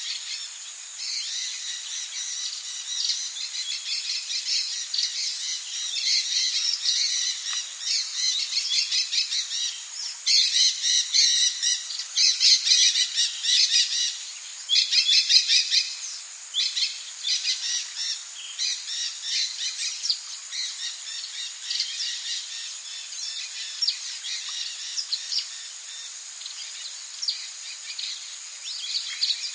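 Rainforest ambience: a bird calling in fast, rapid-fire chattering bouts, loudest about a third to halfway through, over a steady high insect drone.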